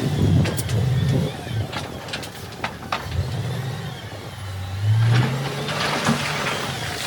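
Diesel engine of heavy earthmoving machinery running and revving up and down, with several sharp metallic clanks in the first few seconds.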